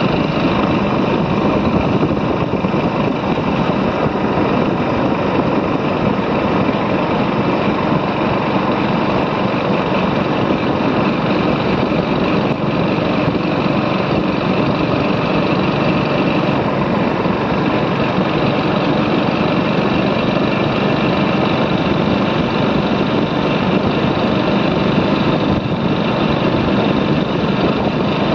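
Motorcycle engine running steadily while riding, under a dense, even rush of noise that does not let up.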